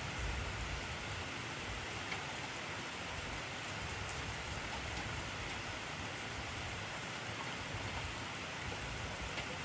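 Heavy rain falling steadily: a dense, even hiss of rain on surfaces with scattered faint drop ticks.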